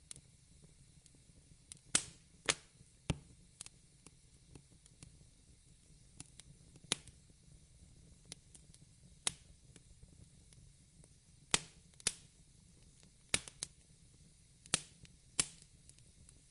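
Fireplace fire crackling: irregular sharp pops and snaps, about a dozen loud ones, some close together in pairs, over a faint steady background.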